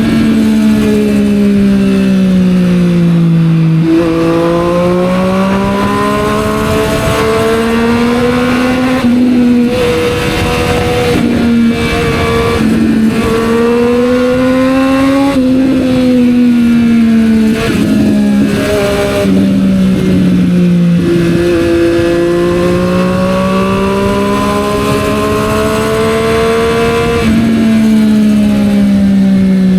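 Triumph Street Triple 765 R three-cylinder engine running through a Yoshimura exhaust while riding, its pitch falling and rising again several times as the bike slows and accelerates through the gears.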